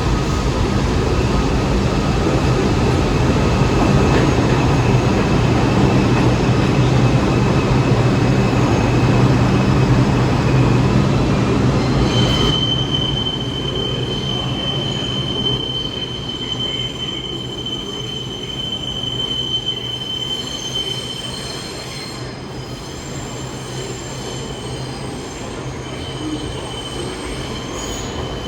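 New York City subway train on the Lexington Avenue express tracks: a loud rumble of wheels and motors for about twelve seconds, then the rumble eases and a steady high-pitched squeal sets in, breaking off briefly near the end.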